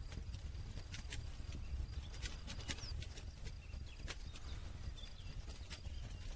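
Wood campfire crackling: irregular sharp pops and snaps over the low, steady rush of the flames.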